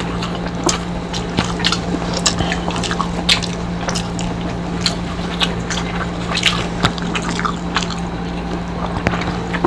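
Close-up eating sounds of people eating fried tilapia and rice with their fingers: irregular wet smacks and clicks of chewing and lips, over a steady low hum.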